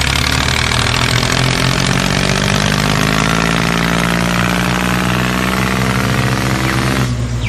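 An engine idling steadily, a low droning note with an even stack of overtones; the sound thins out near the end.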